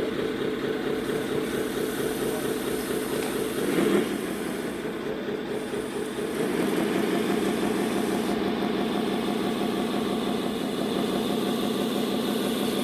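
Radio-controlled scale truck's engine sound unit playing an idling truck engine through its speaker, steady and rhythmic, with a short louder burst about four seconds in and a step up in level from about six and a half seconds.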